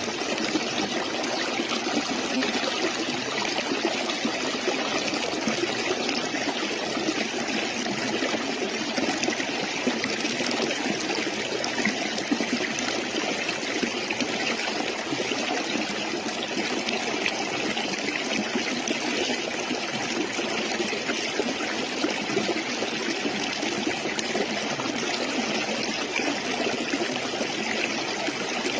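A stream's water running steadily, an even continuous rush and trickle with no breaks.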